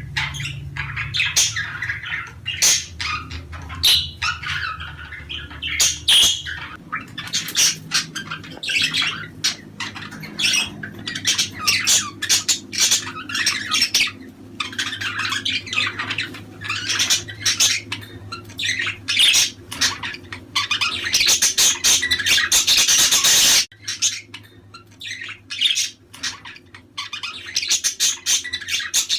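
A flock of budgerigars chattering, warbling and squawking, with rapid clicks and chirps overlapping. The chatter thickens into a dense, loud stretch about three-quarters of the way through, then drops off suddenly.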